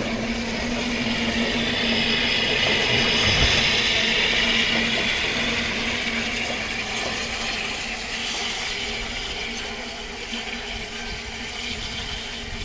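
Narrow-gauge steam train running, a steady rumble with a constant hum and a hissing band that swells and then slowly fades, cutting off suddenly at the end.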